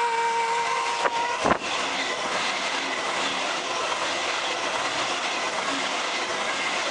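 Sydney Trains Waratah electric train passing through the station at speed, a steady rush of wheels on rail. It opens with a steady horn note that cuts off with a sharp clack about a second and a half in.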